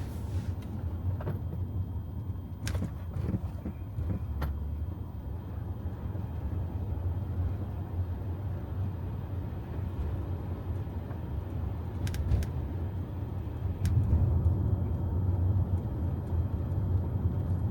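Low, steady road and tyre rumble inside a Tesla's cabin on a wet road, with a few scattered faint clicks; the rumble grows louder about three-quarters of the way through.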